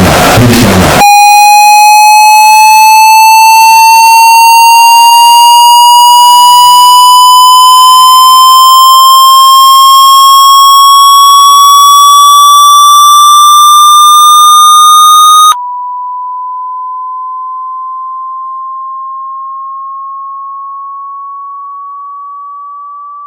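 Synthesized electronic test tone, very loud: a harsh, buzzy tone with many overtones gliding slowly upward in pitch, which cuts off abruptly about fifteen seconds in and gives way to a softer pure tone that keeps rising slowly and fades.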